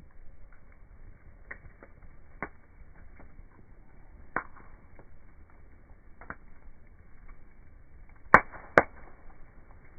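Campfire wood crackling, with scattered sharp snaps every second or two and two loud pops in quick succession about eight seconds in.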